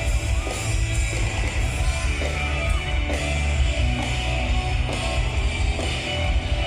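Loud rock music from a live band, with heavy bass, guitar and a singing voice.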